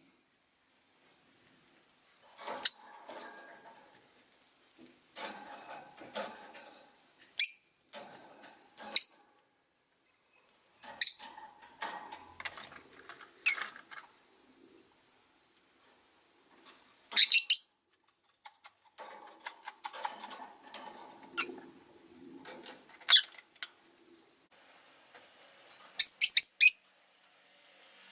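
Rosy-faced lovebirds giving short, sharp high chirps, with quieter stretches of chattering and clicking in between.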